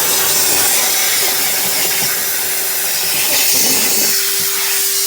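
Vacuum cleaner running, with a loud, steady rush of airflow. About four seconds in, a steady motor whine becomes prominent.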